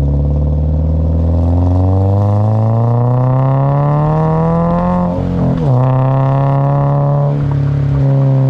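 2022 Subaru BRZ's 2.4-litre flat-four engine, breathing through an aftermarket cat-back exhaust, accelerating under load with its pitch rising steadily for about five seconds. There is a short break for an upshift, and then it runs on more steadily.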